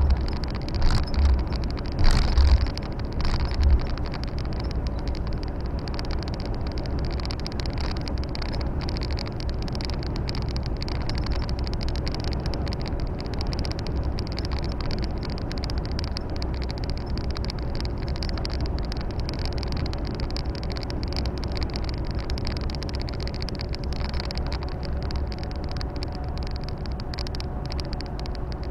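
Volvo FH 460 truck's 13-litre straight-six diesel running steadily under way, heard as a low rumble with tyre and road noise. A few low thumps come in the first few seconds.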